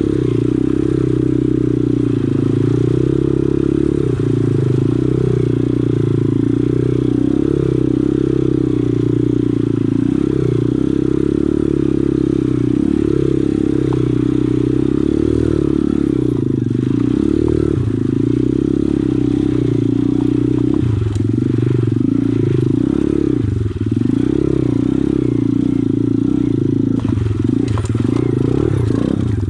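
Pit bike's small single-cylinder engine running under way, its note wavering up and down with the throttle.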